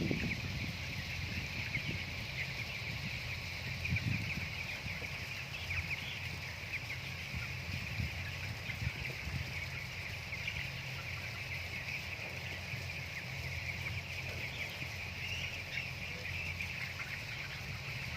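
A flock of broiler chickens peeping and chirping without a break, many birds at once, over a steady low hum.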